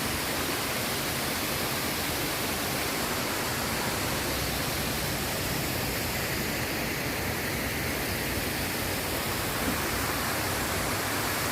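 Water pouring over a river dam: a loud, steady rushing roar with no change in level.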